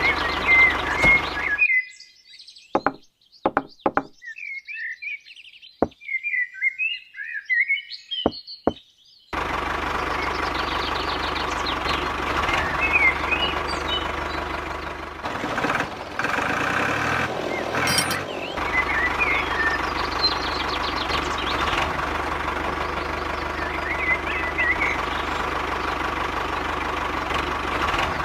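A small motor runs with a steady hum, birds chirping on and off over it. It stops from about two to nine seconds in, leaving only bird chirps and a few sharp clicks, then runs steadily again.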